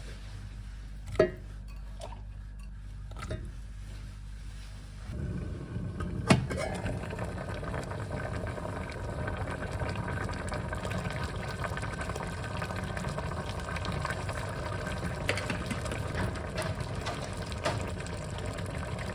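A few light kitchen knocks, then water starts running steadily from a tap about five seconds in.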